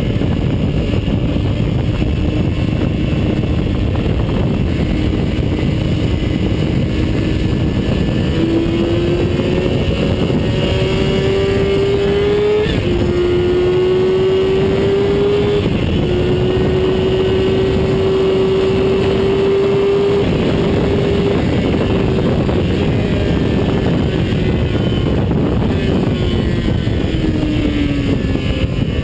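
Onboard sound of a vehicle engine at speed on a race track, under heavy wind and road noise. The engine note climbs and drops sharply twice as it shifts up, holds high for several seconds, then falls away as the vehicle slows near the end.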